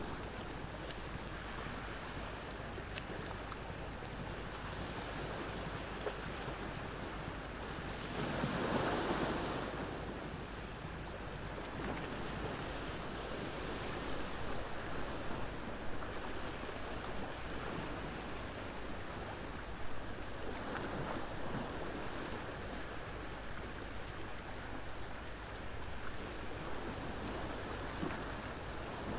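Ocean waves washing onto the shore in a steady wash, with one wave surging louder about eight seconds in. A few faint pops come from a crackling wood campfire.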